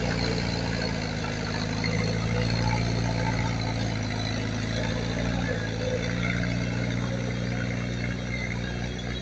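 Heavy diesel engine of earthmoving equipment running steadily at a constant pitch, with a low engine tone under a broad mechanical noise.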